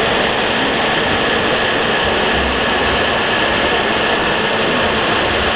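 Scale RC construction machines running: a steady, loud mechanical hum and whine of small motors and gearing.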